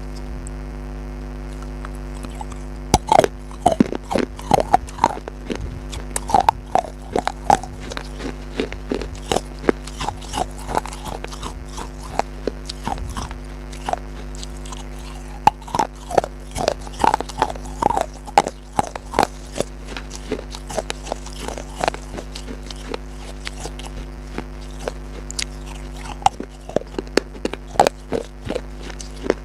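Crunchy biting and chewing: crisp, irregular crunches several a second, starting about three seconds in and easing off for a few seconds after the middle, over a steady electrical hum.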